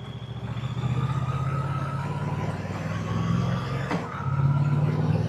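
Moto Guzzi motorcycle's V-twin engine and exhaust running while riding. The engine note grows louder about a second in, and again after a brief click and dip near four seconds in.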